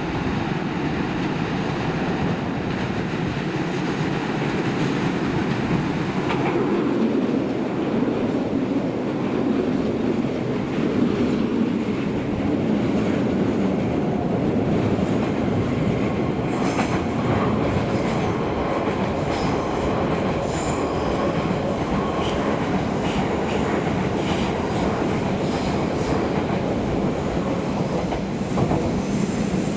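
Keisei Main Line electric train running past at the station, its wheels rumbling steadily on the rails. From about halfway there are frequent rail-joint clicks and brief wheel squeals.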